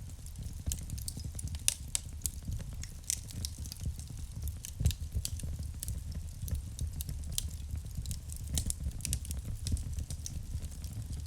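Wood fire burning in a fireplace: irregular sharp crackles and pops over a steady low rumble of the flames, with one louder pop about five seconds in.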